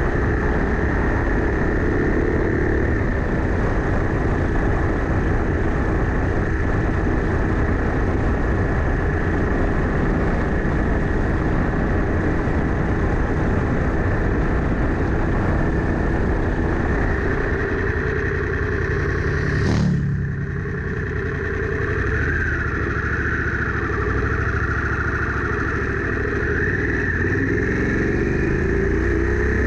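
Harley-Davidson Sportster S V-twin with a Two Brothers Racing Comp S 2-into-1 exhaust, riding along under a steady rush of wind and road noise. About two-thirds of the way through the sound breaks sharply, then the engine note rises and falls as it revs through the gears.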